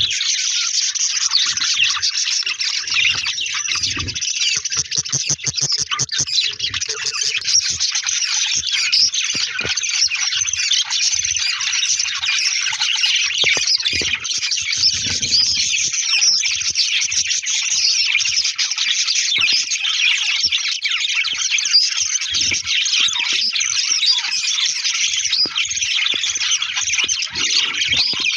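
Budgerigars chattering and squawking: a dense, continuous twittering from many birds at once, with no let-up.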